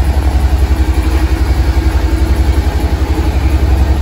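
Suzuki SV650X's 645 cc V-twin engine idling steadily, with a fast, even low pulse.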